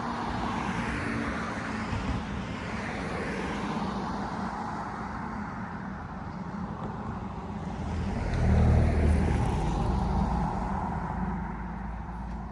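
Street traffic, with vehicles driving past. A heavier vehicle's rumble swells to its loudest about eight seconds in and fades over the next few seconds.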